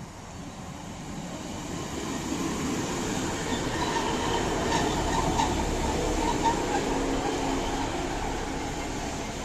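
Class 150 Sprinter diesel multiple unit drawing into a platform, growing louder as it comes alongside and easing off as it slows. A few sharp wheel clicks over the rail joints about five seconds in.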